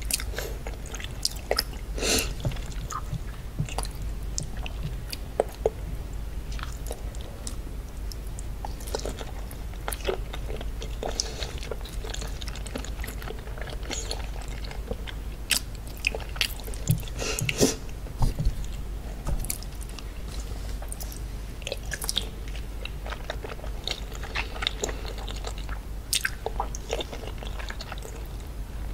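Close-miked chewing of seafood: wet mouth clicks and smacks with occasional crunches, and a few louder bites scattered through.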